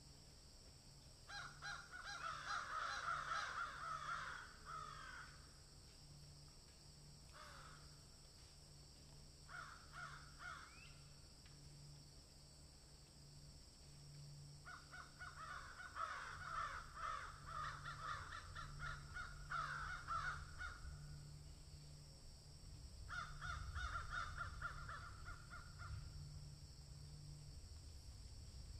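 Bird calls in several bursts of rapid repeated notes, each burst lasting from about a second to several seconds, over a steady high hiss.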